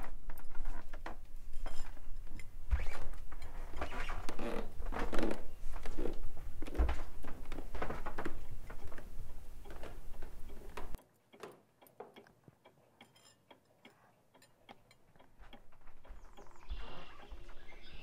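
A wall clock ticking among clicks and low thumps of footsteps on wooden stairs. About eleven seconds in the sound cuts off to near silence with only faint ticks, and birds start chirping near the end.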